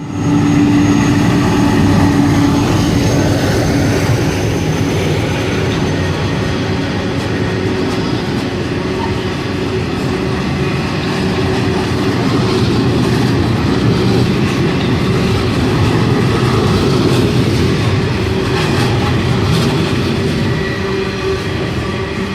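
A loaded coal train passing close by: a steady, loud rumble and clatter of heavy wagons over the rails, with faint held tones from the wheels.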